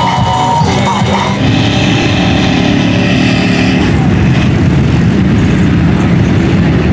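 Truck engine running loudly at steady high revs, with music underneath in the first second or so.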